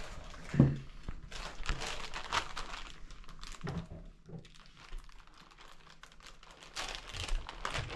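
Close-up biting and chewing of a crumbed-snapper wrap: crackly crunching and crinkling of the tortilla, with a short loud vocal noise from the eater about half a second in.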